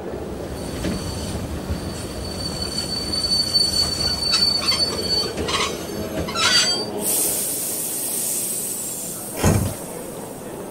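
Train arriving: a rumbling run with a thin, high wheel squeal, then a sudden hiss from about seven seconds in, and a heavy thump near the end.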